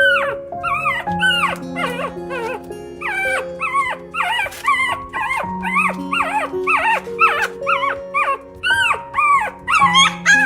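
A puppy whimpering and yipping in a quick run of short, high-pitched cries, about two a second, each rising and then falling in pitch, over background music with held notes.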